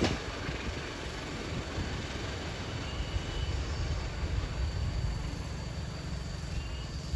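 Steady low rumble of a train, with no distinct wheel beats.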